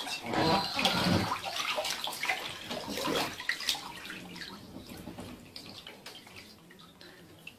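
Water splashing and sloshing, busiest in the first few seconds and dying away toward the end.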